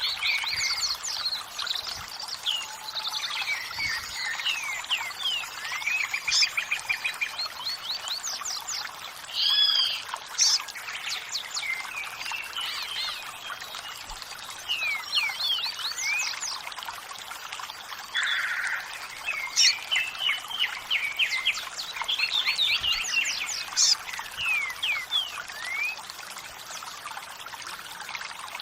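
Many songbirds chirping and trilling over the steady rush of running water.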